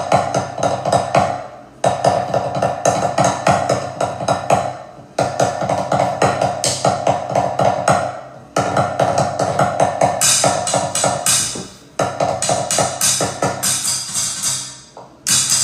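A looped drum beat: rapid percussive strikes over a steady droning tone, in a phrase that starts over about every three and a half seconds.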